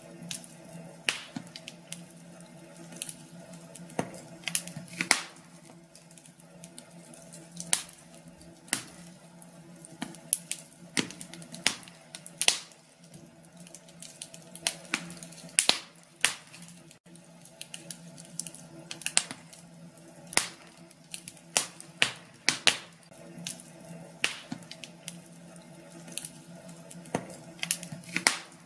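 Wood fire in a fireplace crackling, with irregular sharp pops and snaps, a few of them much louder, over a faint steady low hum.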